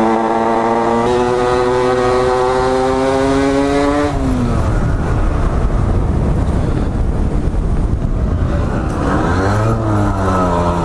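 Motorcycle engine pulling under way, its pitch climbing steadily for about four seconds. The note then drops back beneath steady wind and road rush, and near the end the pitch dips and rises again as the engine is revved.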